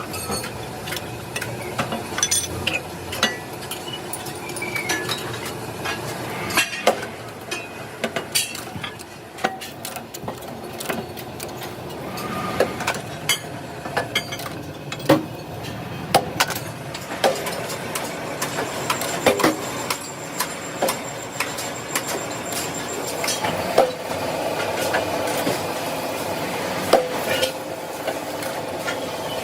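Steel being worked by hand: irregular hammer blows and metallic clanks at an uneven pace over a busy background, with the clatter thickening and ringing more near the end.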